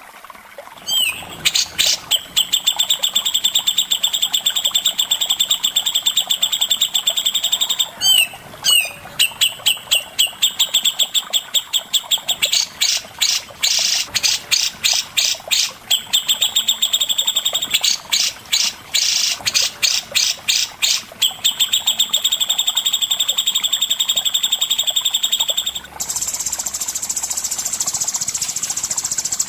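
A songbird singing a long, varied masteran song: high, steady trilling notes alternate with runs of fast repeated chips, several times over. Near the end it gives way to a buzzy, insect-like trill.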